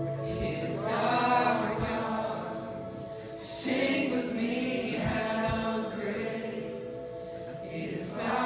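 Group singing of a gospel song with steady held instrumental accompaniment, new sung phrases starting about a second in, at about three and a half seconds, and near the end.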